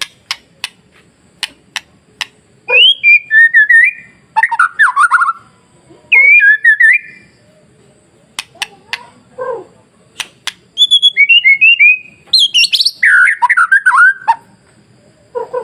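White-rumped shama (murai batu) singing: short, rapid whistled phrases that slide up and down, broken by runs of sharp clicks between phrases.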